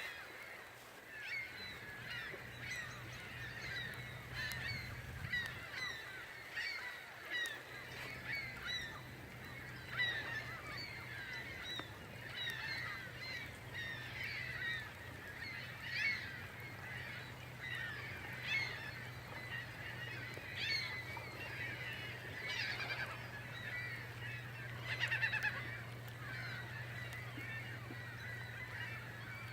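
A large flock of birds calling continuously, many short calls overlapping, with a steady low hum underneath.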